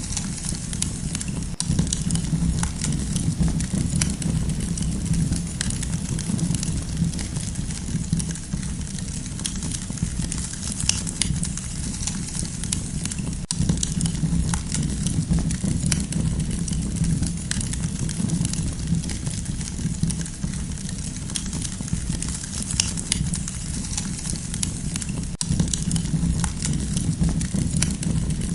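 Wood campfire crackling, with many sharp, irregular pops and snaps over a steady low rumble of the flames.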